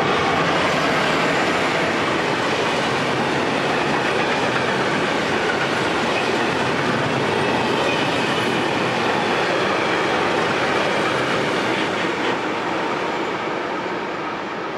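Freight train wagons rolling past on the track, a steady loud clatter of wheels on rails that begins to fade near the end as the last wagon goes by.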